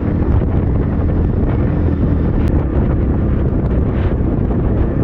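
Templar X 250 dirt bike engine running steadily under way, mixed with loud wind buffeting on the camera microphone.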